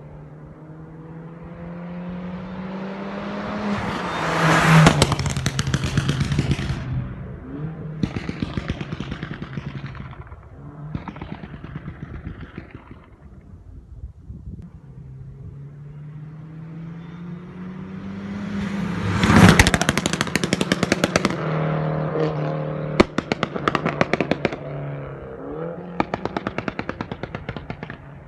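Straight-piped exhaust of a 2009 Mini Cooper S R56's turbocharged 1.6-litre four-cylinder, revved up twice from idle. Each rev is followed by rapid crackling and popping from the exhaust as the revs fall.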